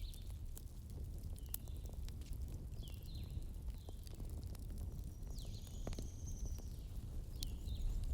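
Campfire burning with a steady low rumble and scattered sharp crackles and pops, while birds give short chirps every second or so.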